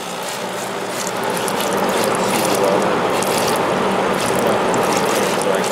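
1994 White Westinghouse 5200 BTU window air conditioner running, with condensate water sloshing and splashing inside its base pan as a rattly clatter over the steady hum of the fan and compressor, growing louder about a second in. The sloshing is the sign of the unit pulling moisture out of the air faster than it drains.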